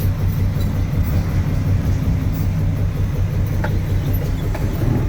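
Truck engine idling steadily, heard from inside the cab as a low, even hum. Two faint clicks sound near the end.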